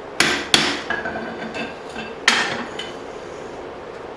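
Steel on steel: three sharp clanks that ring on briefly, two close together near the start and one a little after two seconds, from a forged hatchet head and its drift being handled.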